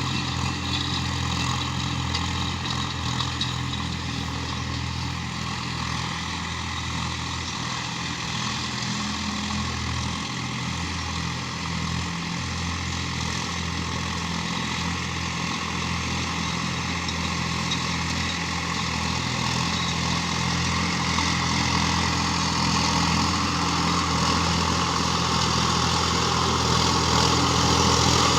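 Sonalika tractor's diesel engine running steadily, growing a little louder toward the end.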